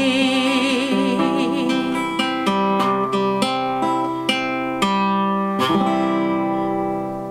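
Acoustic guitar picking the closing notes of a folk ballad and ending on a final chord that rings out and fades. A woman's held sung note with vibrato trails off in the first two seconds.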